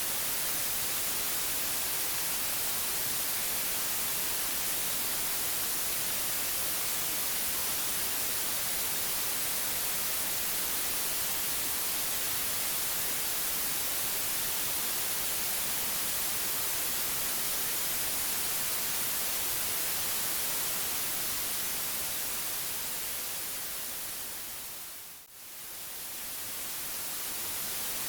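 Steady white noise: an even hiss with most of its energy in the high frequencies. Near the end it fades down to a brief dip and swells back up.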